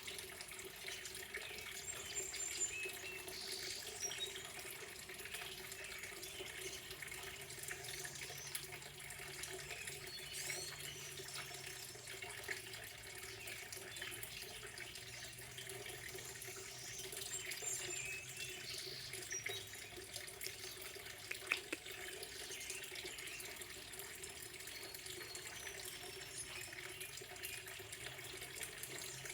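Steady sound of running water, with short high bird chirps now and then.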